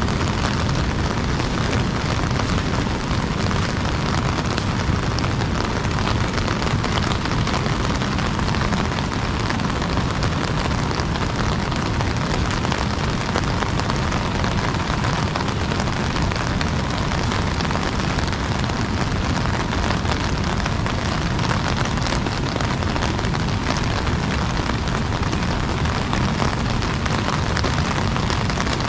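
Heavy rain on an umbrella: a dense, unbroken hiss over a deep, continuous rumble.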